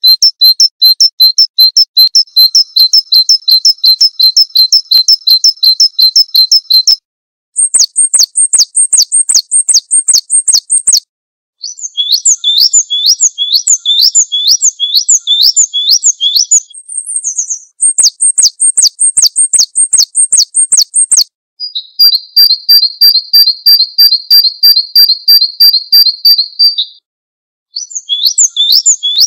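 Small songbirds singing rapid, high-pitched runs of repeated chirps and trills, spliced clip after clip. Each run lasts a few seconds and cuts off suddenly into a brief silence before the next bird starts.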